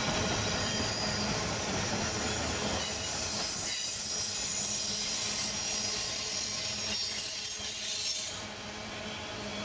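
Freight train cars rolling past with steel wheels squealing on the rail in several high, steady tones over the rumble of the train. The low rumble thins about four seconds in, and the sound drops off near the end as the cars pass.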